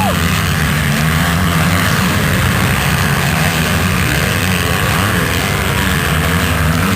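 Motocross motorcycle engines running, a steady loud drone that wavers in pitch.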